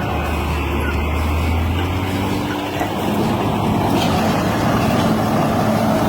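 Heavy machinery engine running, with a deep low engine note that drops away about three seconds in as a higher, steady engine note carries on.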